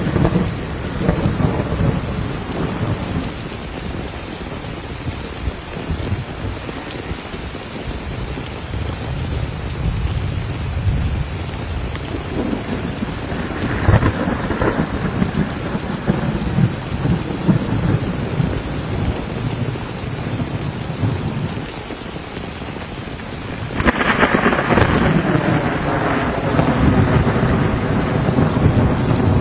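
Heavy rain falling with rumbling thunder; a louder rumble swells about halfway through, and another sets in suddenly near the end.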